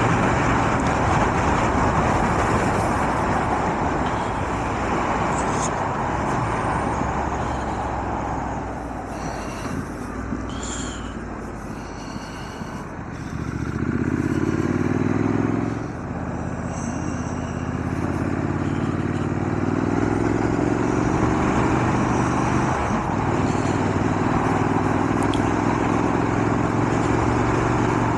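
Triumph Scrambler 900's 900 cc parallel-twin engine and wind rush on a moving motorcycle. Steady wind noise at cruising speed eases as the bike slows around ten seconds in. The engine note then climbs as it accelerates through the gears, dropping at an upshift about sixteen seconds in, climbing again, and settling near the end.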